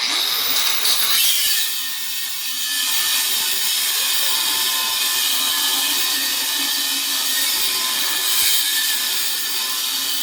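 Grinder cutting into the metal of a safe, starting abruptly and running steadily under load.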